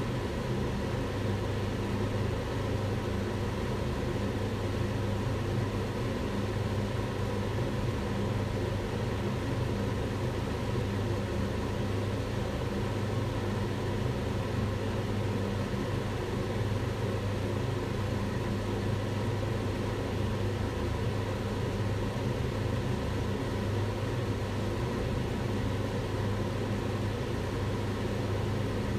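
Kitchen range hood fan running steadily: an even rush of air with a low motor hum underneath, unchanging throughout.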